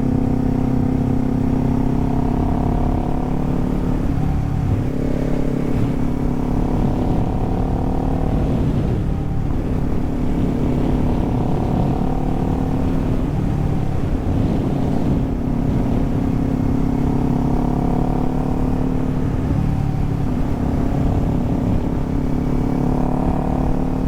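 Kawasaki Z400's parallel-twin engine running under way, heard from the rider's position. Its note dips and picks up again every few seconds as the throttle is eased and reopened, over a steady low rush of wind.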